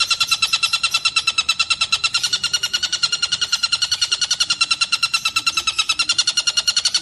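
Tengkek buto kingfisher calling in a fast, unbroken trill of about ten sharp notes a second, steady in pitch.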